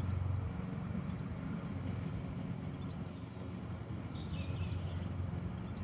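Steady low drone of a distant lawnmower engine, with a few faint bird chirps.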